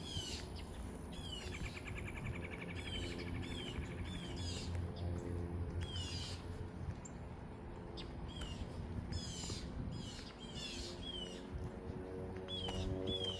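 Songbirds calling: many short, falling chirps repeated over and over, with a buzzy trill about two seconds in.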